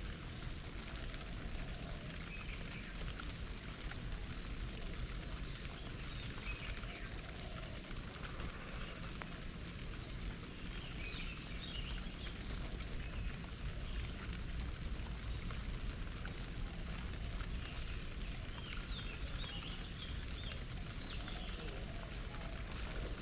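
Small garden birds splashing in a bird bath, with short high chirps from birds now and then.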